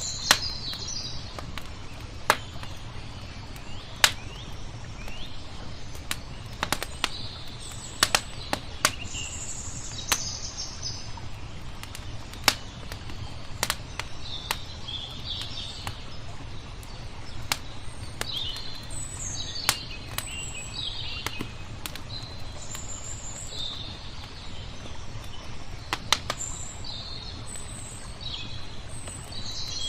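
Wood fire crackling with irregular sharp pops, while small birds chirp and twitter throughout, over a steady low rumble.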